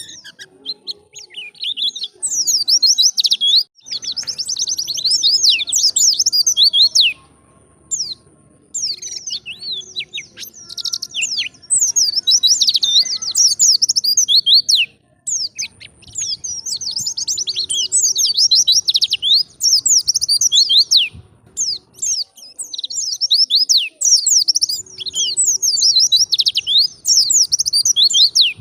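White-eye (pleci) singing a fast, high-pitched twittering song in long runs of rapid notes, broken by short pauses every few seconds.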